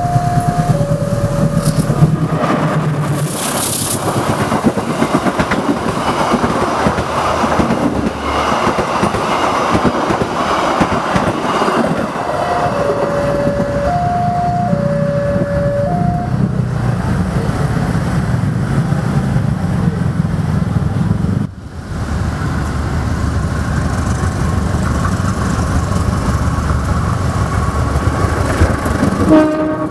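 Level-crossing warning alarm beeping in two alternating tones while a diesel locomotive hauling passenger coaches passes, with the loud clatter and rush of its wheels on the rails; the alarm sounds again about 12 seconds in. After a break about 21 seconds in, another diesel locomotive passes with a steady low engine rumble under the wheel noise.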